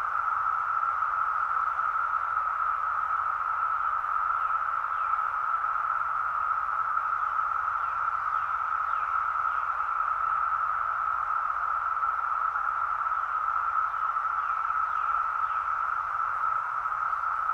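Dense chorus of Brood X periodical cicadas, a steady, unbroken high drone. Faint short higher chirps come through now and then.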